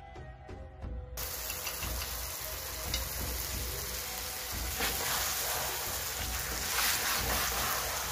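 Onions, bell peppers and tomatoes sizzling in a hot kadai as they are stirred with a metal ladle, with fried chicken pieces tipped in partway through. The sizzling starts about a second in and stays steady.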